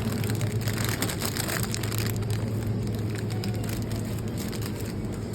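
Steady low rumble of a train running, heard inside the carriage, with frequent light crackling clicks over it.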